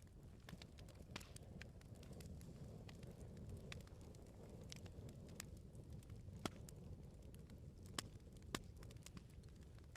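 Faint wood bonfire crackling: a low steady rumble of the flames with scattered sharp pops and snaps, three louder pops in the second half.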